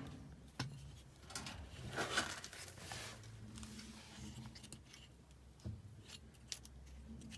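Faint scattered clicks and scrapes of a washing machine part being pushed and worked into its seat by hand, not going in, over a low steady hum.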